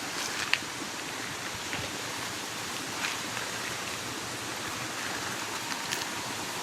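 Steady rustling hiss of wind moving through trees and banana leaves, with a few faint crackles of dry leaves underfoot.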